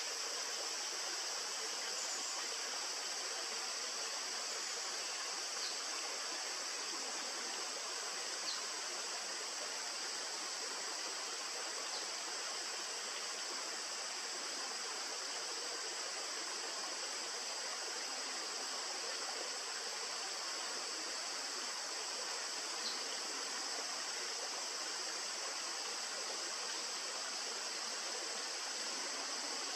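Steady rushing of river water, an even, unbroken wash of noise with no rise or fall.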